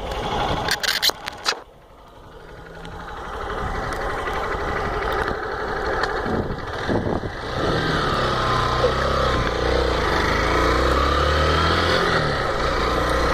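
Small dirt motorcycle's engine running under way, its pitch rising and falling through the second half. A few sharp knocks come in the first second and a half.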